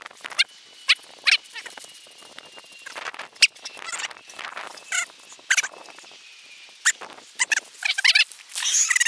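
Dog whining in a string of short, high, wavering squeaks, about a dozen of them, some close together.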